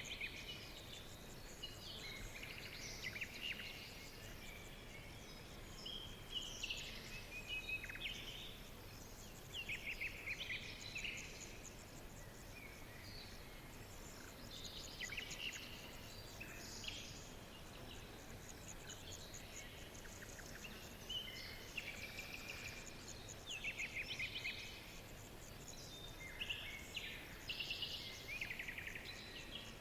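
Songbirds chirping and trilling in short phrases that recur every second or two, over a steady background hiss.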